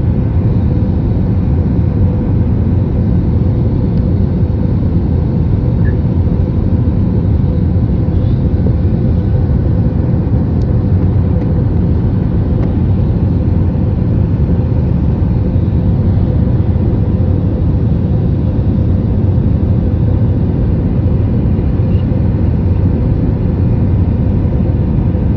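Steady cabin noise inside an airliner on approach: a constant low rumble of engines and rushing air with a steady hum running through it.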